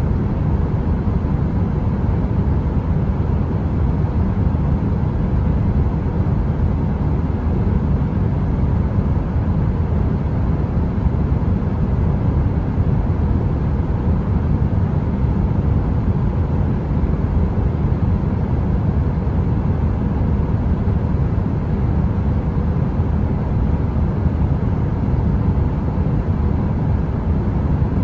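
Heater running: a steady, unbroken low rushing noise, deepest in the bass, with a faint steady hum above it.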